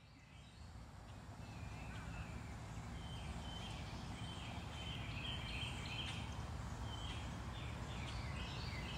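Birds chirping in the trees, a string of short repeated calls over a steady low outdoor rumble, fading in over the first couple of seconds.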